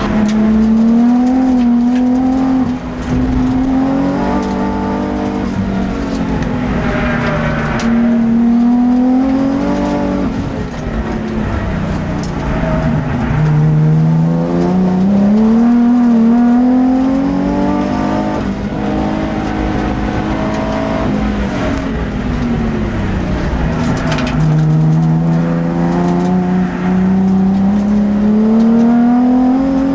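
Twin-turbo track car's engine heard from onboard under hard acceleration. Its pitch climbs steadily over several seconds and then drops back, repeatedly, as it is driven through the gears and corners of a racing lap.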